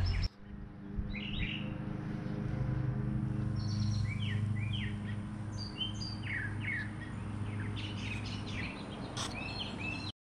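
Songbirds chirping outdoors in short, quick, downward-sliding calls that come in scattered clusters, over a steady low background hum.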